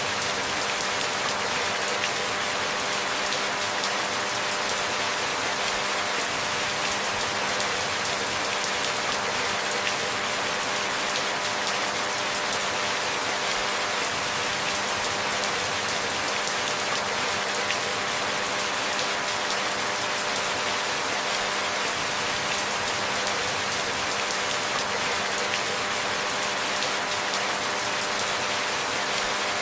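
Steady rain falling: an even hiss of dense drops that stays unchanged throughout.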